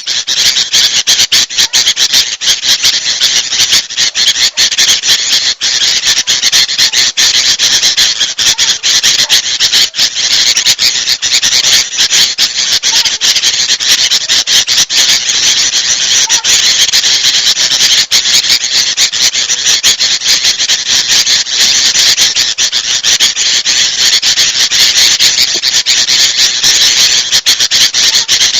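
Dense, unbroken chorus of agitated bulbul calls: noisy, overlapping scolding chatter of sooty-headed bulbuls mixed with kutilang emas bulbul calls, layered into a lure recording for drawing in small birds.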